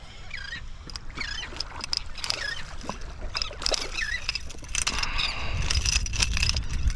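Seabirds calling in short, repeated curving cries over a steady low wind-and-water rumble, with scattered sharp clicks.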